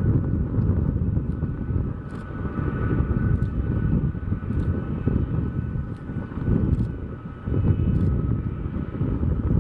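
Boeing C-17 Globemaster III's four turbofan engines running as it taxis: a steady whine over a loud, unsteady low rumble.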